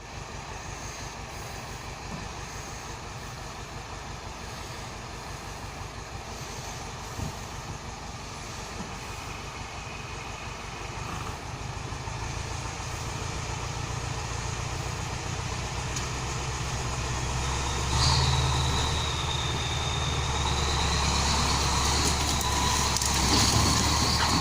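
T-40AM wheeled tractor's diesel engine running steadily while skidding timber. It grows louder through the middle, with a sudden rise in level about three-quarters of the way in, where a high whine joins the engine note.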